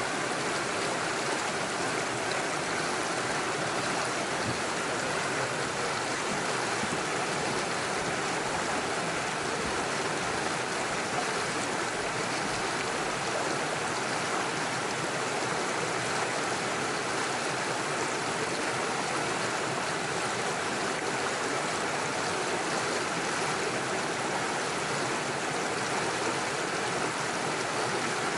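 Small stream running over stones, a steady rush of water with no let-up.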